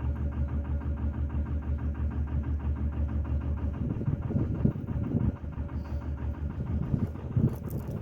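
Narrowboat diesel engine running with a steady, even beat of about five pulses a second, becoming less even about halfway through.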